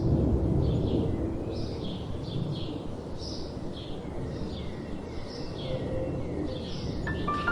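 Birds chirping, short calls repeating about once or twice a second, over a steady low rush of gentle wind. Soft piano notes come in near the end.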